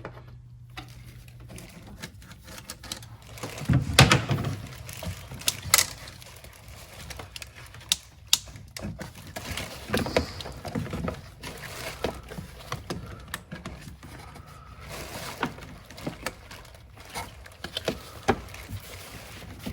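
Irregular knocks, clicks and scrapes of hand tools and engine parts being worked loose during a diesel top-end teardown, with a louder thump about four seconds in.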